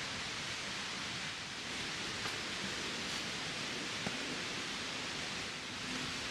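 Steady rushing outdoor ambience, with one small click about four seconds in.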